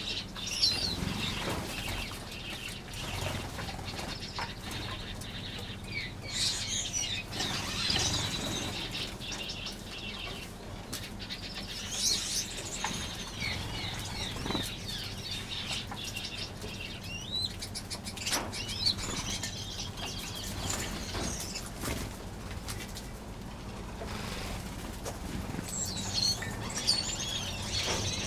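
A flock of small aviary finches fluttering, wings flapping again and again, with scattered high chirps and calls throughout.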